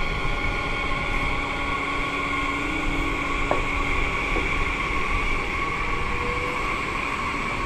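Train running through the station: a steady rumble with a constant high-pitched hum over it, and a brief click about halfway through.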